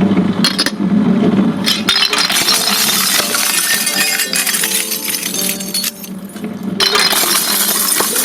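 Glass light bulb being crushed in a grinding machine: a steady motor hum, then from about two seconds in a dense crunching and clinking of breaking glass, which eases briefly around six seconds and then picks up again.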